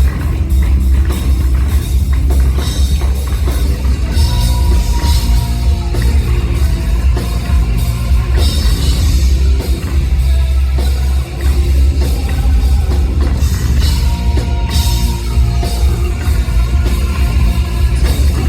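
Live hard rock band playing loudly: drum kit, heavy bass and electric guitars, with no vocals in this stretch.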